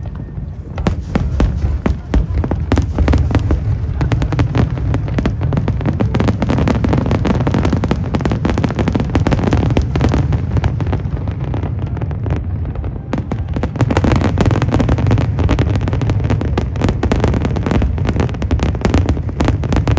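Aerial fireworks going off in a dense, continuous barrage of booms and crackles, easing slightly then thickening again about two-thirds of the way through.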